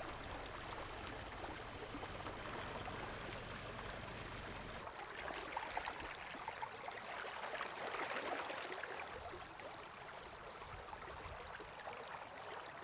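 Small stream of running water flowing and trickling steadily. A faint low rumble underneath stops about five seconds in.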